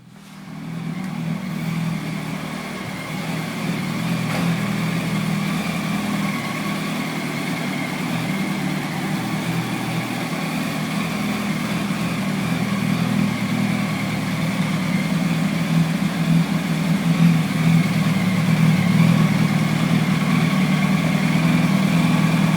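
Yamaha YZF-R1's inline-four engine idling steadily through an Akrapovic slip-on exhaust.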